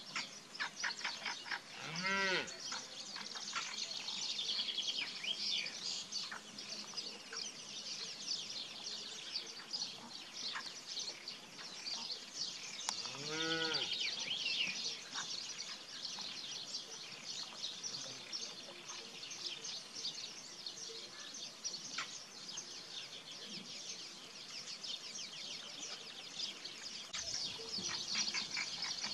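Cattle mooing twice, once about two seconds in and again near the middle, each a single drawn-out call, over a dense, continuous chorus of birds chirping.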